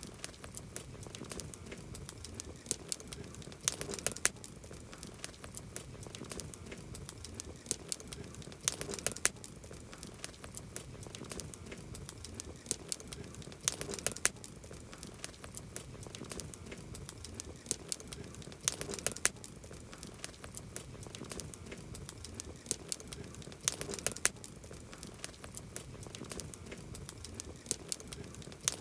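Wood campfire crackling: a steady soft hiss scattered with sharp pops and snaps, with a cluster of louder pops about every five seconds.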